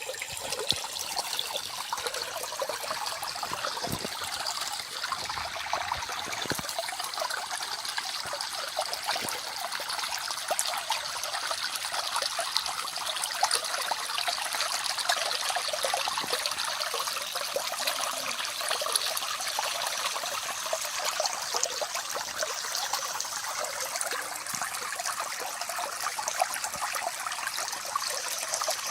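Small forest stream flowing and trickling steadily over its bed, an even rush of water with fine splashing, mostly high-pitched with little low rumble.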